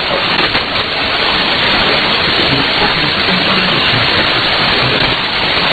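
Shortwave AM broadcast received on 6160 kHz through an SDR receiver: steady, heavy static hiss limited by the receiver's filter, with a weak voice barely showing under the noise.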